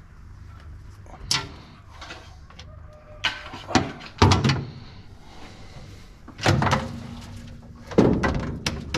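Metal covers and panels on a combine harvester being handled and removed: a series of sharp clanks and bangs, the loudest near the middle and the last third.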